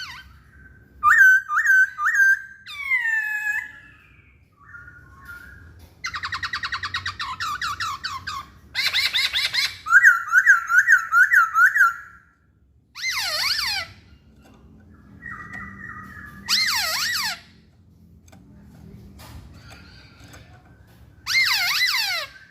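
Chinese hwamei (poksay Hongkong) singing: a run of loud, varied whistled phrases, some of quickly repeated looping notes and some fast trills, with short pauses between them.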